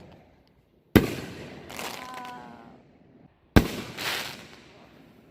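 Fireworks exploding: two sharp bangs about two and a half seconds apart, each trailing off in a fading crackle.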